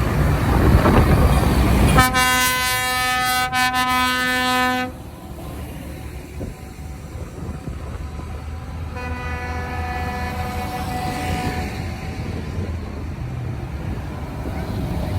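Vehicle horn sounding one long blast of about three seconds, then a second, fainter blast some seconds later, over the steady low running of tractor engines.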